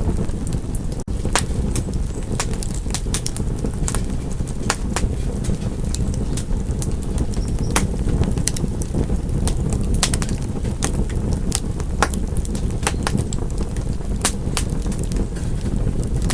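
Wood fire crackling in a fireplace: irregular sharp pops and snaps over a steady low rumble. The sound cuts out for an instant about a second in.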